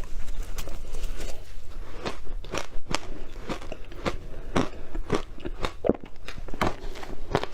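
A person biting and chewing something hard and crunchy, close to the microphone: a quick, irregular string of sharp crunches, a few each second.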